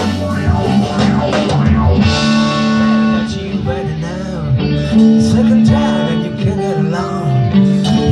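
Live band playing, led by an electric guitar through effects pedals, its notes bending up and down over a held bass line.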